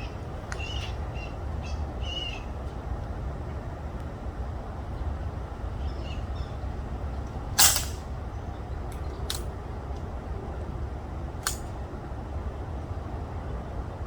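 A .22 PCP air rifle fires once about seven and a half seconds in, a short sharp report, followed by two fainter clicks. Underneath is a steady low rumble, with a few short high chirps near the start.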